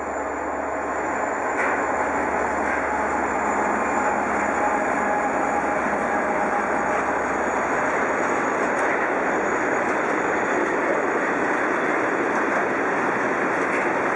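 M62M diesel locomotive passing at the head of a freight train, its engine and the rolling wheels making a steady, dense noise that grows louder over the first two seconds and then holds.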